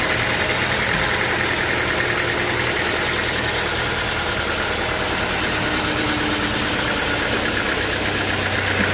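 A sawmill's engine running steadily, a constant loud mechanical drone with no break.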